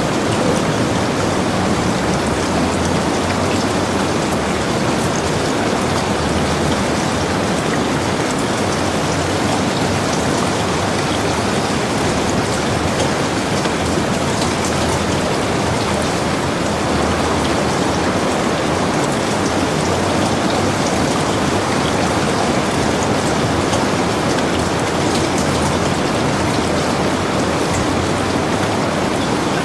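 Heavy rain falling steadily on a log cabin, a dense even hiss of drops with faint individual patters.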